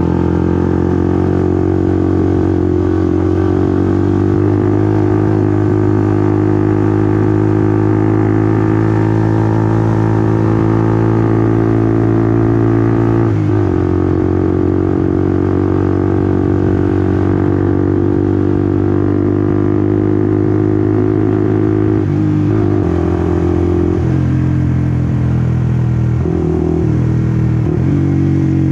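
Honda CBR150R's single-cylinder engine running under way, its pitch climbing slowly before dropping sharply about halfway through. It then holds steady, and near the end the engine speed dips and rises in several quick steps.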